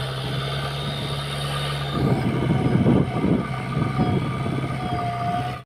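Diesel engine of a JCB earth-moving machine running steadily, then working harder and growing louder and rougher about two seconds in, with irregular crackling over the engine hum.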